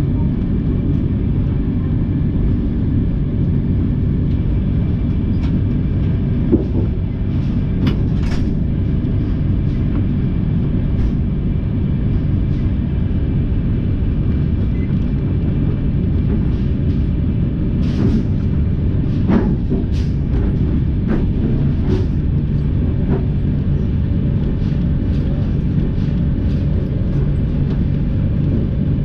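Passenger train carriage running at speed: a steady low rumble of wheels on the track with a faint hum and a few short clicks and knocks, about eight seconds in and again between about eighteen and twenty-two seconds in.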